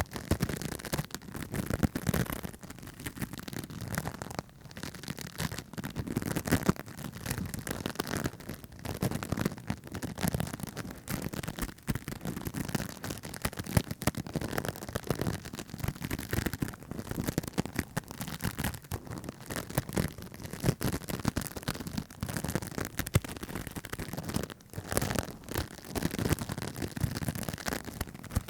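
Close-miked ASMR trigger sounds: a dense, continuous stream of rapid small clicks, taps and crackles, uneven in loudness.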